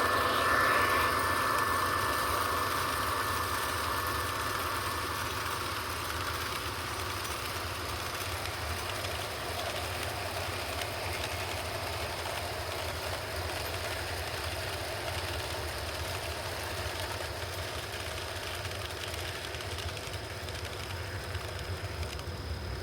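Sound system of an MTH O scale model diesel locomotive running, an electronic diesel engine rumble, together with the train's wheels rolling on the track. It is loudest at the start and gets quieter over the first several seconds, then holds steady.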